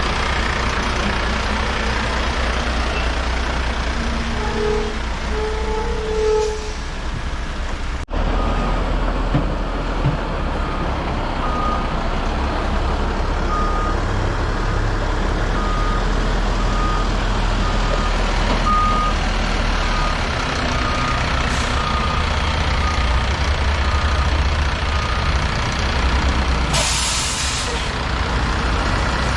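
Heavy diesel dump-truck engine running steadily. A backup alarm beeps at a little more than one beep a second through most of the middle. Near the end comes a short hiss of air, like an air brake releasing.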